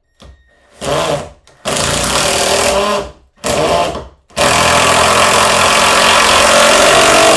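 Power drill driving a screw into wood in four stop-start bursts, the last and longest running about three seconds.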